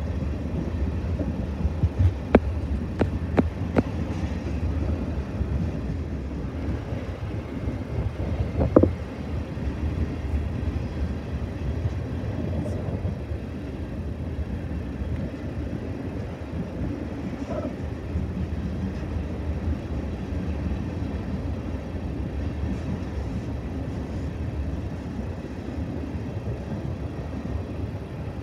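Railroad tank cars of an oil train rolling past, their wheels making a steady low rumble on the rails. There are a few sharp clicks in the first nine seconds or so.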